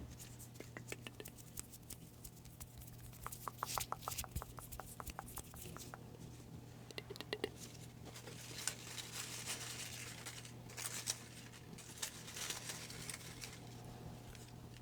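Close-up crinkling and rustling of paper slips being handled and drawn from a hat, with scattered light clicks and a quick run of small ticks about four seconds in.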